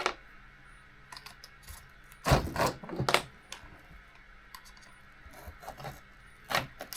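Metal clicks and clinks of side cutters gripping and pulling stuck pins out of an RC car's parts. There are sharper knocks about two and three seconds in and again near the end.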